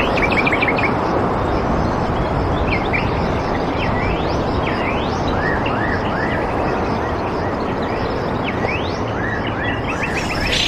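Small birds chirping and calling, with short quick notes and rising whistled glides, over a loud steady rushing noise.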